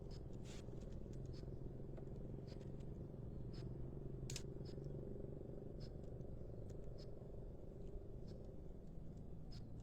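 Short, high chip notes from small birds, scattered about one a second, over a steady low rumble.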